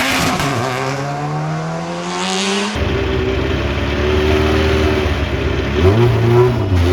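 Race car engine at full throttle: the revs drop at a gear change, then climb steadily. An abrupt cut about three seconds in brings in another engine running at high, steadier revs, with another shift in pitch near the end.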